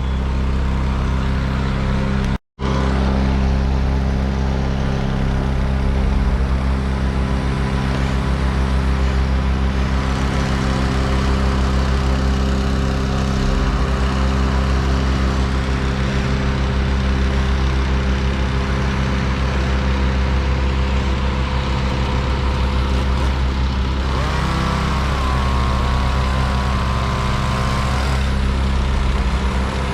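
A large engine running steadily at a constant speed, cut off by a brief dropout about two and a half seconds in.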